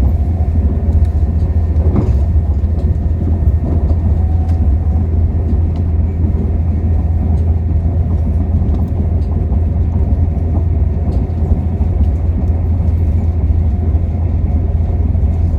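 Steady low rumble of a moving passenger train, heard from on board, with one faint knock about two seconds in.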